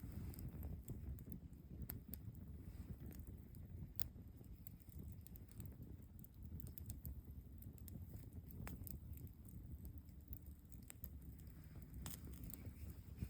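Campfire crackling: scattered sharp pops and snaps at irregular intervals over a low rumble.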